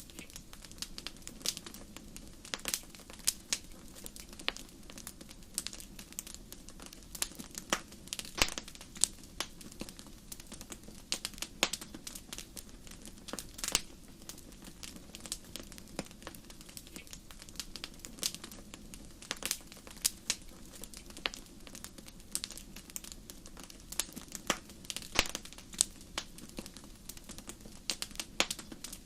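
Wood fire burning in a fireplace, crackling with many irregular sharp pops and snaps over a low steady hiss of flames.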